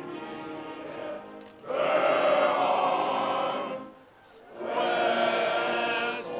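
A group of voices singing together as a choir in long held notes. It starts softer, then comes two loud phrases with a short break about four seconds in.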